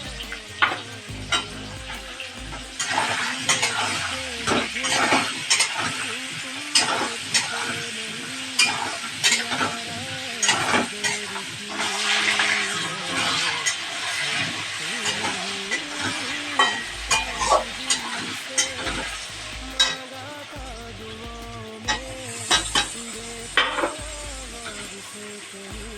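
Food frying in hot oil in a pan with a steady sizzle, while a spatula stirs it, knocking and scraping against the pan many times at irregular intervals.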